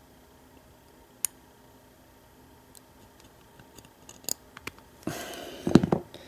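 Lock pick and tension wrench working inside a rusty Master Lock No. 5 padlock, whose pins are stiff and hard to move: a few faint sharp metallic clicks, then, about five seconds in, a louder burst of scraping and knocking as the lock and tools are shifted in the hand.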